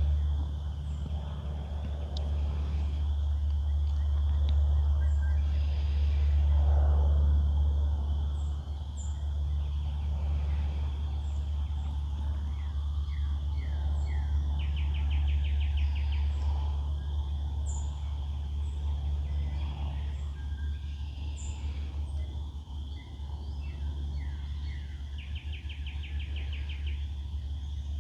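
Wild birds singing in woodland: short falling whistled notes, a fast even trill that comes twice, and thin high chips scattered throughout. Under them runs a steady low rumble.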